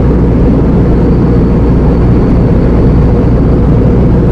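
Steady, loud drone of an Iveco Eurocargo lorry's diesel engine and road noise, heard from inside the cab while driving.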